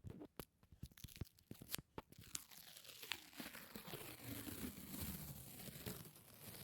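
Close-miked sticky ASMR sounds. First come a string of separate sharp sticky clicks. From about two and a half seconds in, these run together into a continuous crackling, peeling sound, like a tacky surface being pulled apart.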